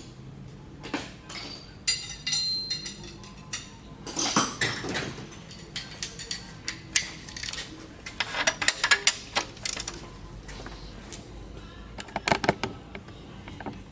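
Metal tools and parts clinking and clattering as they are handled, in irregular bursts of sharp clanks, a few ringing briefly.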